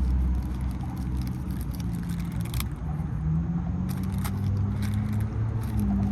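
Steady low hum of a running engine whose pitch drifts slightly, with a few sharp clicks from handling the oil filter parts.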